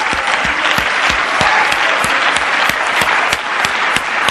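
A congregation applauding, dense and steady, with a few voices calling out over the clapping.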